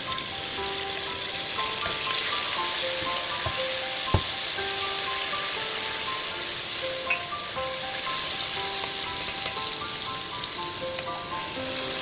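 Chopped tomatoes sizzling in hot oil in a stainless steel pot. The frying hiss starts suddenly as they go in and then holds steady while they are stirred. Background music with a simple melody plays over it, and there is a single sharp knock about four seconds in.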